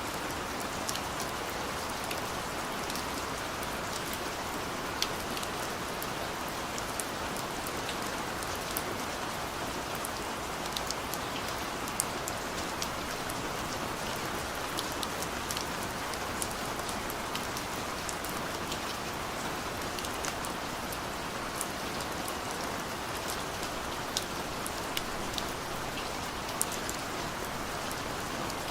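Heavy rain pouring steadily, with individual drops ticking sharply here and there.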